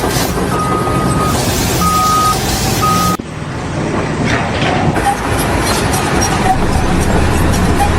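A heavy vehicle or machine engine running, with an electronic warning beep sounding three times at one steady pitch in the first three seconds. About three seconds in, the sound cuts abruptly to a different stretch of engine noise.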